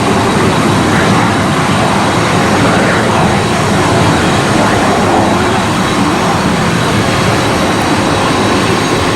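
Airliner jet engines running: a loud, steady rush of noise with a faint high whine.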